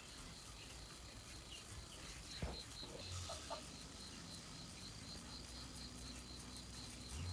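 Faint insect chirping in a steady, even pulse of about three high chirps a second, with a single knock about two and a half seconds in and a few short faint chirps just after.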